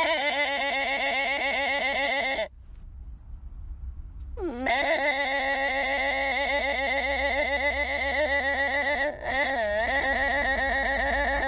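A farm animal bleating: three long, wavering bleats, each several seconds long, the first cut off about two and a half seconds in and the next two following almost back to back after a short pause.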